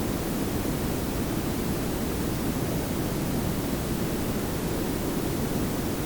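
Synthetic pink and brown noise layered together: a steady, even hiss over a deep low rumble, with no change.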